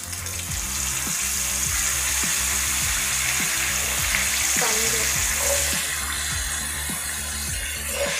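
Boiled chickpeas deep-frying in hot oil in a pan: a loud, steady sizzle that starts as they hit the oil and eases a little after about six seconds.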